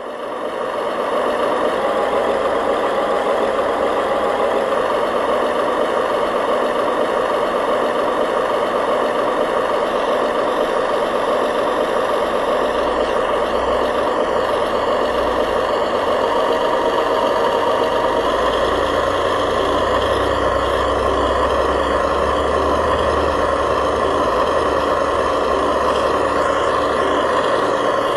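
Remote-control model bulldozer and dump trucks running: a steady engine-like drone, with a deeper rumble joining it about twenty seconds in.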